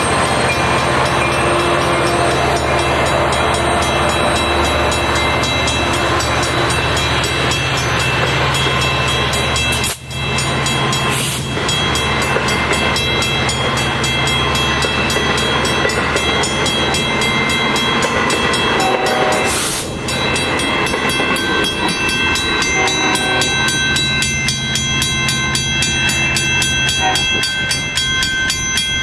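Long Island Rail Road diesel-locomotive train at a station, its engine running with a steady low drone and steady higher tones. The sound cuts out briefly twice, about ten and twenty seconds in.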